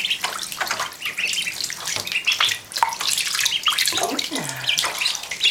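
Week-old runner ducklings peeping over and over, with a steady splash and trickle of shallow water around them.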